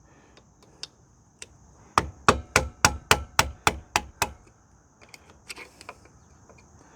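A run of about ten sharp hammer blows, roughly four a second, with lighter single knocks before and after. The blows are knocking loose a badly rusted, stuck part on a 1990 Suzuki LT250S ATV.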